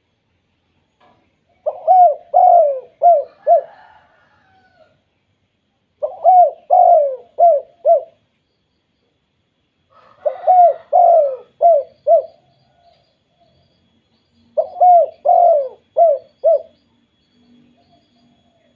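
Spotted dove (tekukur) cooing: four phrases of about five short, repeated coos each, a few seconds apart.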